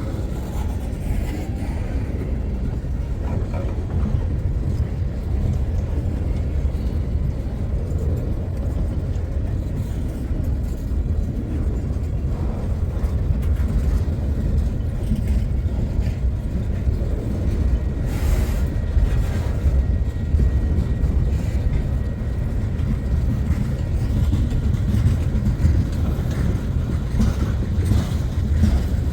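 Long freight train rolling past: a steady low rumble from the cars, with scattered clicks.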